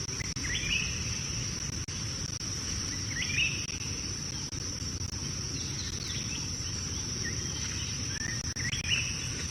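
Rainforest ambience: a steady high-pitched insect drone, with a bird giving a short call about every three seconds over a low rumbling background noise.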